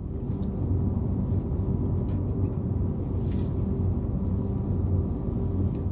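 Steady low rumble and hum of a Renfe Class 120 (CAF) electric train heard from inside the passenger car as it runs into a station. It swells at the start and dies away near the end.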